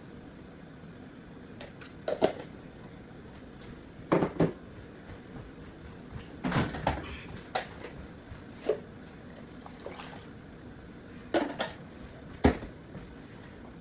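Kitchen handling sounds: about ten scattered knocks and clicks of containers, lids and cookware being picked up and set down, one sharp knock near the end.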